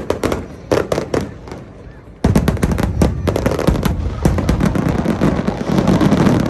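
Fireworks going off: a few separate sharp bangs, then from about two seconds in a dense, continuous rapid crackle of many reports.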